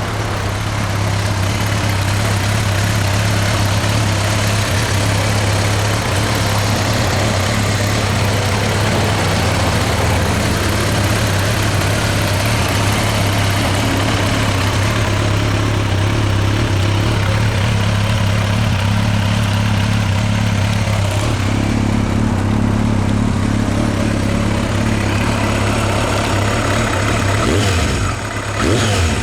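Kawasaki ZRX1200R's inline-four engine idling steadily through a STRIKER aftermarket exhaust, with a short rev near the end.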